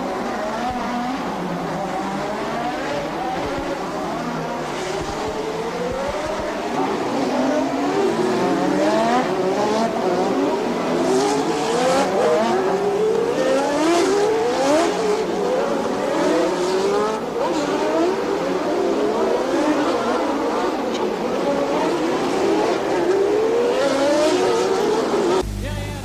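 1988 Formula One cars' engines revving hard through the gears: a run of rising revs, each broken off by a gear change, getting louder about seven seconds in. The sound cuts abruptly to a steadier, lower drone near the end.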